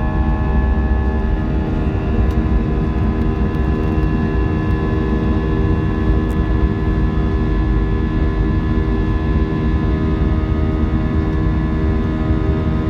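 Jet airliner's engines heard from inside the passenger cabin: a steady deep rumble with several even whining tones over it.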